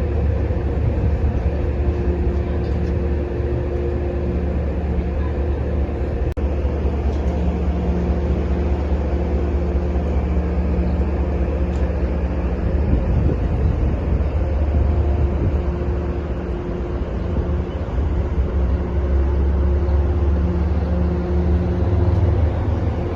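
Diesel locomotive engine running at a steady low hum, with a few steady tones held throughout.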